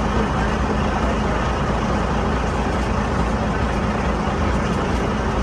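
Boat engine running steadily, a constant low drone with a steady hum.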